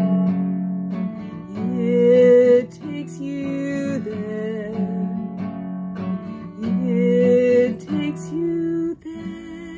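Acoustic guitar strummed under a woman's voice holding long, wavering notes without clear words, closing out a song. The music fades down near the end.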